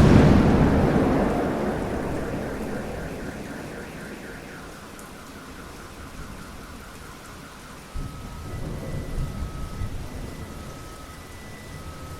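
A thunderclap cracks sharply right at the start and rumbles away over several seconds, with steady rain falling. A second, softer roll of thunder comes about eight seconds in.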